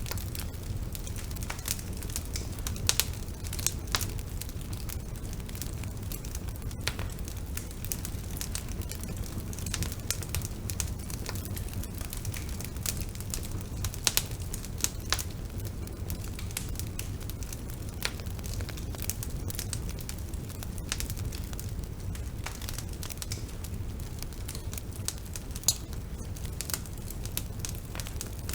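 Wood fire burning with a steady low rumble and scattered crackles and pops, a few of them sharper and louder.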